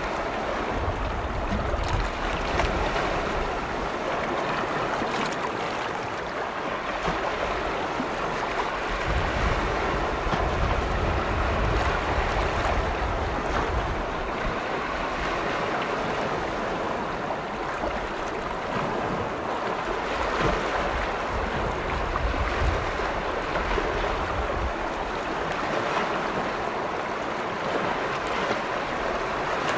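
Waves from Lake Vänern, Sweden's largest lake, washing steadily against the shore. Wind rumbles on the microphone in a few gusts, near the start, around the middle and again about two-thirds of the way through.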